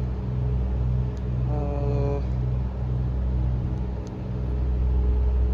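Steady low rumble of a vehicle, pulsing slightly, with a brief voice about a second and a half in.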